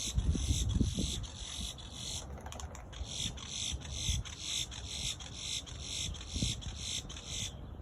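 High-pitched animal calls pulsing evenly about three times a second, stopping abruptly near the end, over a low rumble.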